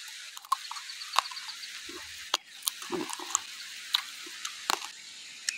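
Close-up chewing with wet mouth smacks and clicks, irregular and of varying loudness, over a steady low hiss.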